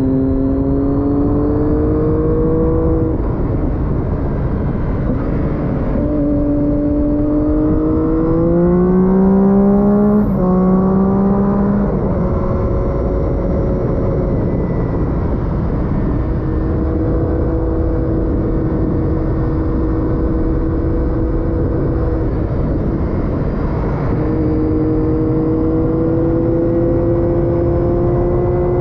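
Triumph Daytona 675 inline-three sportbike engine with an Arrow exhaust, heard from onboard under heavy wind noise: the engine note climbs and drops back twice as it shifts up, holds steady at cruise, then slowly climbs again near the end. The sound is muffled, the microphone's wind muff being soaked by rain.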